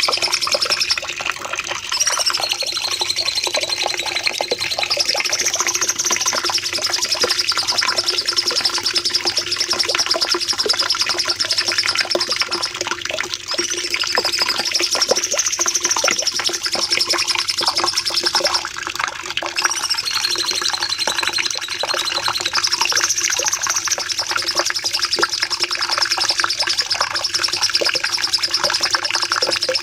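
Cucak cungkok singing a long, unbroken run of rapid chattering trills, its pitch wavering up and down, with a faint steady hum underneath.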